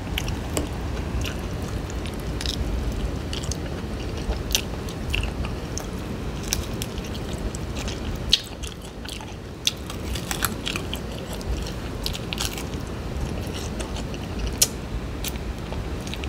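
Close-miked biting and chewing of fried bone-in fish, with frequent sharp crunches scattered throughout.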